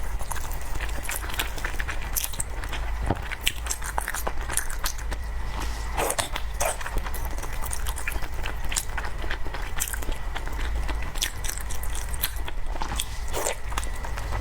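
A person biting and chewing dessert close to the microphone: irregular mouth clicks, over a steady low hum.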